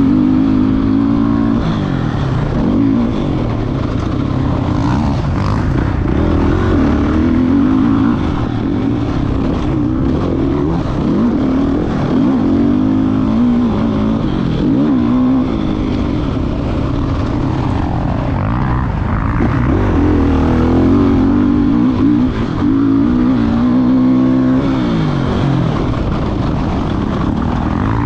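Motocross bike engine being ridden hard on a dirt track, its pitch climbing and dropping again and again as the rider throttles up and shifts between turns.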